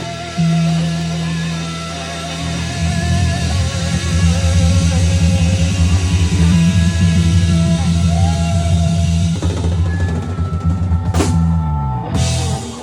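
Rock music with a drum kit, bass and electric guitar, the guitar lines wavering in pitch. Near the end the low notes slide down in pitch and the music dies away.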